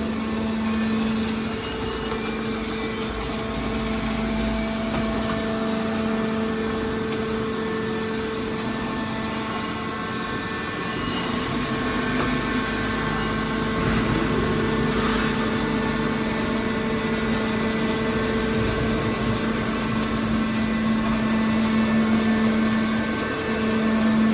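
Machinery running with a steady hum that holds one pitch throughout.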